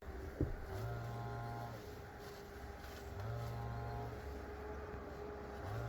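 A machine's motor running with a steady hum. A deeper, many-toned drone swells in for about a second roughly every two and a half seconds. There is a single sharp knock about half a second in.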